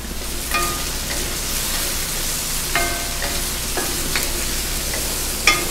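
Chicken pieces frying in hot canola oil in a stainless steel wok, a steady sizzle, while a wooden spatula stirs them. The spatula knocks against the pan about four times, each knock ringing briefly.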